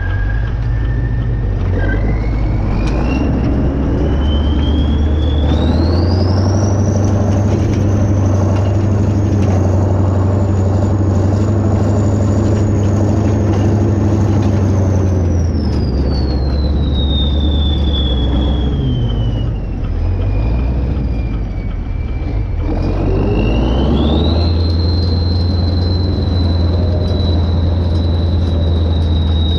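Kirovets K-700A tractor's diesel engine running hard with a high whine that follows the revs. It speeds up about six seconds in, holds, drops back for a few seconds past the middle, then picks up again near the end.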